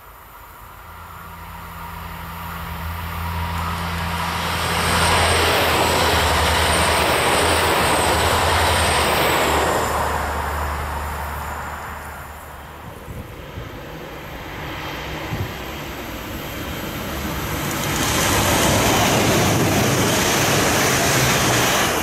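Electric passenger train approaching and passing at speed: a low steady hum builds, then a loud rush of wheels on rail with a faint high whistle. It fades off, and near the end another loud rush of passing rail traffic builds up.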